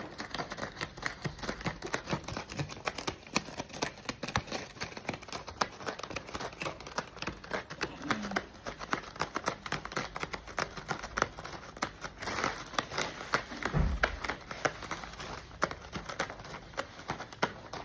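A cat clawing at a scratching post: a long run of rapid, irregular scratching strokes, with a soft low thump about three-quarters of the way through.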